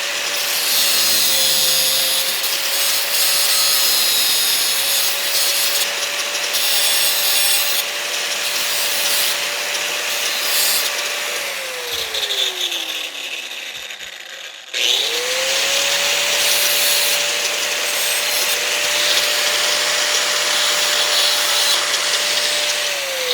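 Handheld electric power tool working metal, with a steady motor whine under a rasping hiss. It winds down about halfway, stops briefly, then spins back up and runs until it winds down again near the end.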